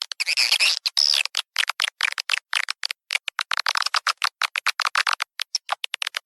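Swiftlet lure call recording: rapid, high chirping and twittering of swiftlets, cut into many short bursts several a second with dead silence between them and a few longer twittering runs. It is the call played at a swiftlet house to draw the birds in.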